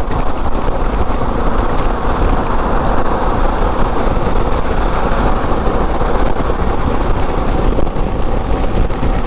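Honda Africa Twin motorcycle riding at motorway speed in heavy rain: a steady, loud rush of wind, road and spray noise with the bike running underneath.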